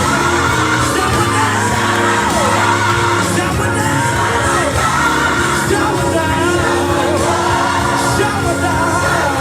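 Worship band playing with voices singing over it in a large room, with occasional shouts and whoops from the congregation.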